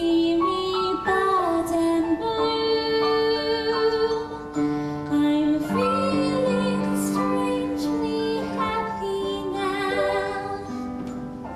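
A woman singing a slow stage-musical ballad in long held notes over accompaniment.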